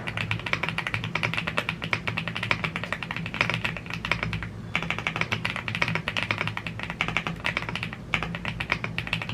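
Steady fast typing on a YUNZII AL75 gasket-mounted aluminium mechanical keyboard with Blue Grey tactile switches and PBT keycaps: a dense run of keystroke clicks, with brief pauses about halfway through and near the end.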